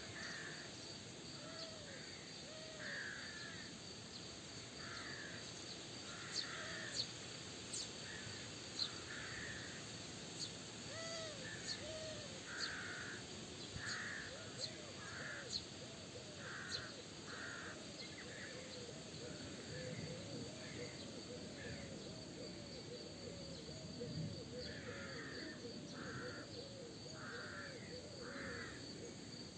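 Outdoor bird chorus: short, rough calls repeating about once a second, mixed with quick small chirps and, through the first half, sharp high ticks, over a steady high hiss.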